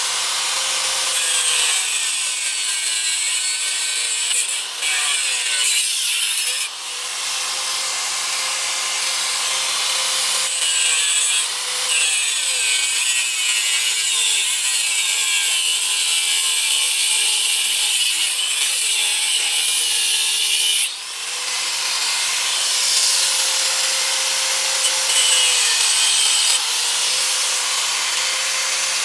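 Handheld electric power tool running against a surface with a steady rasping, abrasive sound. Its motor pitch sags several times as it is pressed harder, with brief lifts off the work about 5, 7 and 21 seconds in.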